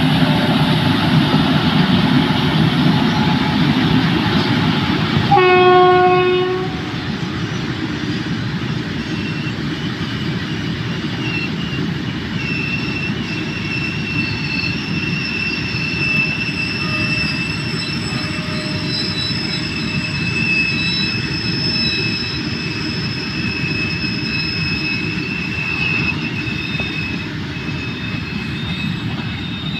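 Indian Railways freight train behind WAG-9HC and WAG-7 electric locomotives passing close by, with a heavy rolling rumble. A train horn sounds once for about a second near six seconds in. The open wagons then roll past steadily, with a high thin wheel squeal from about twelve seconds on.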